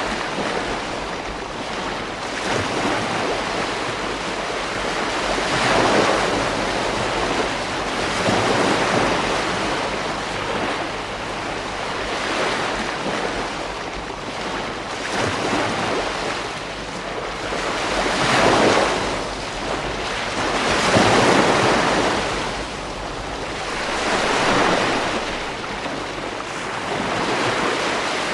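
Ocean surf breaking on a beach: a steady wash of water that swells into a louder crash every few seconds and then recedes.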